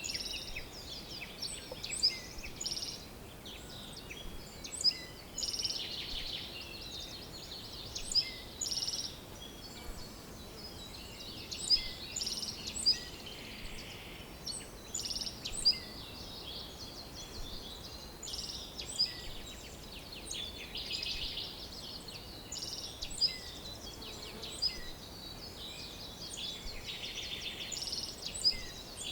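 Songbirds chirping and singing over a faint steady background hiss. Short sharp calls come every second or two, with rapid trilled phrases between them.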